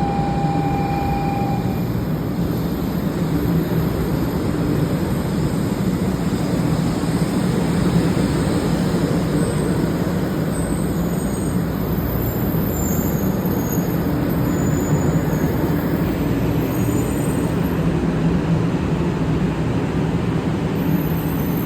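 500 series Shinkansen train at a station platform, a steady low rumble and hum. A thin high tone sounds at the start and stops about a second and a half in.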